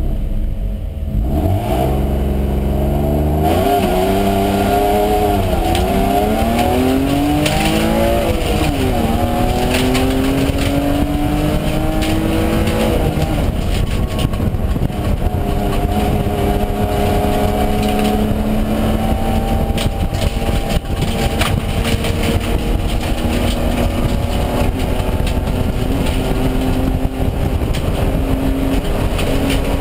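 BMW 325i E36 race car's straight-six engine heard from inside the stripped cabin, launching hard about a second in and revving up through the gears. The revs climb and drop back at each upshift over the first dozen seconds, then run high and fairly steady at speed with small rises and lifts.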